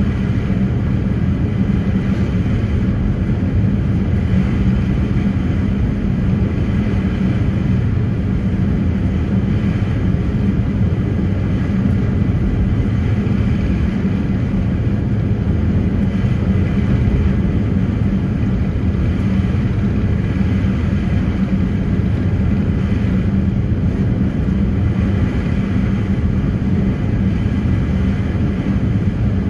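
Passenger ferry under way, its engines and hull making a loud, steady low drone with a noisy rush over it.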